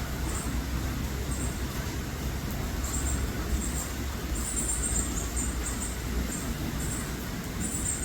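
Steady low rumble, with short high-pitched bird chirps repeating several times, in a quick run about halfway through.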